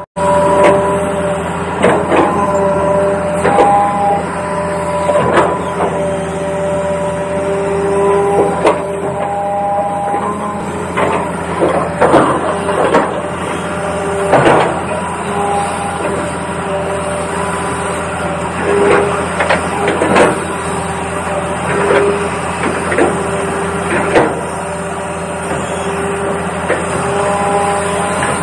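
Toy remote-control excavator working: the whine of its small electric motors switches on and off at a few steady pitches, over frequent sharp clicks and knocks of plastic parts.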